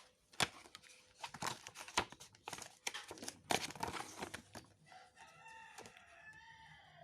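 Paper and plastic packaging crinkling and rustling as a boxed battery's contents are handled, in a run of sharp strokes. Near the end a rooster crows once for about two seconds in the background.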